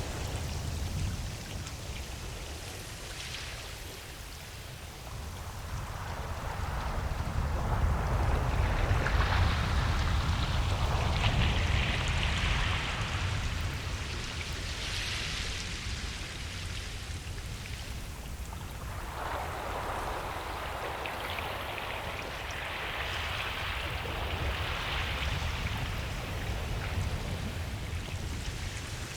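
Waves breaking and washing up a beach, a steady hiss of surf over a low rumble. It swells twice: one wave builds from about five seconds in and peaks near the middle, another near the end.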